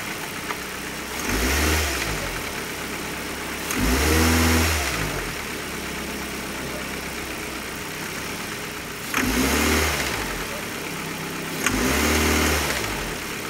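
A 2005 Ford Focus four-cylinder engine idles and is revved briefly four times, each rev rising and dropping back to idle. A sharp click comes at the start of most of the revs.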